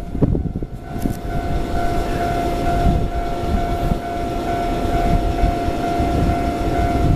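Nankai 12000 series and 8000 series eight-car electric train approaching along the track, its rumble building slowly. A steady high tone is held throughout.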